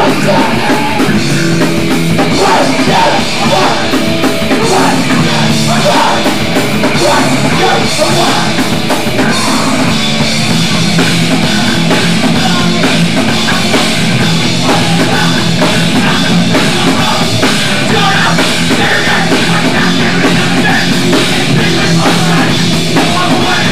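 Loud hardcore punk music with distorted guitar and drum kit, playing continuously.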